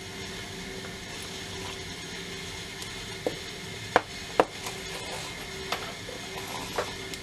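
A Keuffel & Esser Favorite Whiteface 25-foot tape measure being worked by hand. It gives a steady dry rubbing rasp with a few sharp clicks, about five of them spread over the last two thirds. The tape is a little stiff and, by the owner's judgment, needs oil.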